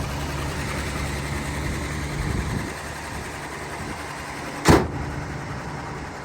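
A 1980 Chevrolet half-ton truck's six-cylinder engine running, quieter after about three seconds, then a door slams shut once, the loudest sound, near the end.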